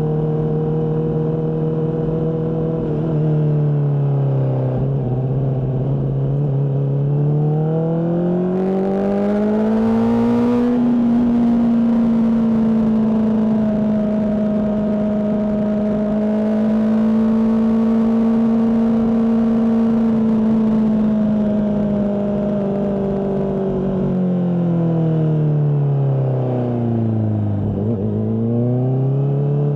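Honda CBR600RR's inline-four engine through a Mivv exhaust, ridden under load. The engine note holds steady, then climbs smoothly over several seconds and stays at higher revs for about ten seconds. It then falls away and picks up again near the end.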